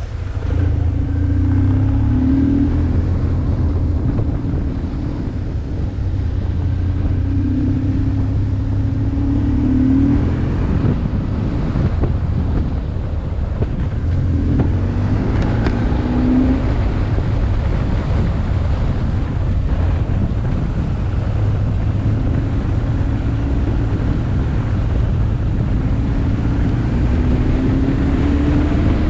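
BMW R1150R's boxer twin engine running as the bike is ridden, with wind noise on a helmet-top microphone. The engine note rises four times as the bike accelerates.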